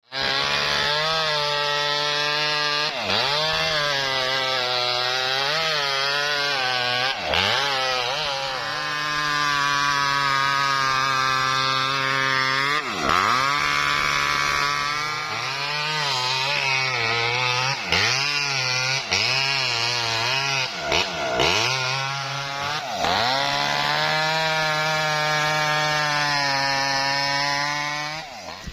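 Small petrol engine of a mini sawmill cutting lengthwise through a coconut-palm trunk. Its pitch dips sharply and recovers again and again as the blade bites into the wood and the engine bogs under load. It winds down near the end.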